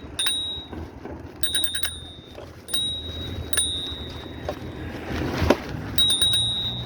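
A bicycle bell rung in quick bursts of dings, each ringing on at one high tone, five times over. A sharp knock about five and a half seconds in is the loudest sound.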